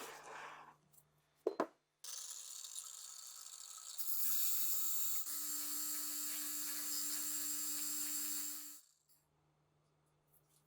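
A couple of short clicks, then a steady hissing machine noise that starts abruptly, grows louder with a low hum a couple of seconds later, and cuts off about two seconds before the end.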